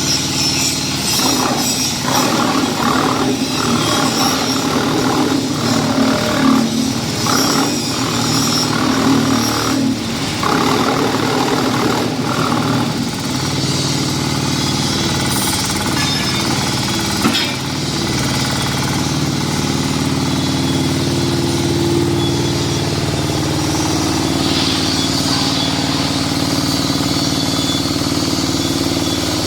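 Diesel-powered QTJ4-40 hydraulic concrete block making machine running: its engine drones steadily while the machine rattles hard in quick repeated bursts for about the first thirteen seconds, then settles to a steadier run with a single knock partway through.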